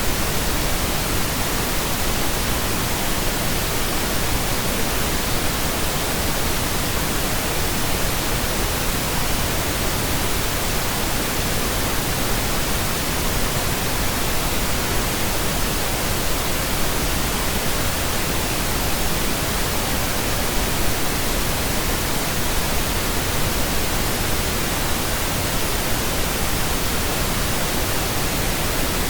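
Steady synthetic pink noise: an even, unchanging hiss that spreads across all pitches.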